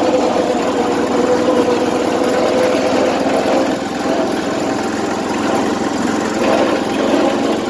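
Snapper riding mower's small engine running steadily, with its governor out of adjustment, as the owner says.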